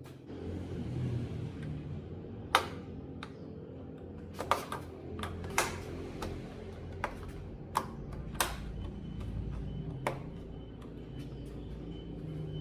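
About ten sharp clicks and taps at irregular intervals, the loudest about two and a half seconds in, over a steady low hum.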